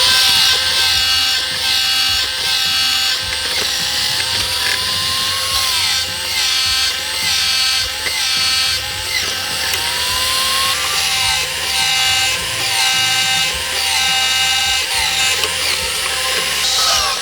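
Electric power tool grinding steel, its whine dipping and recovering again and again as it is pressed into the work.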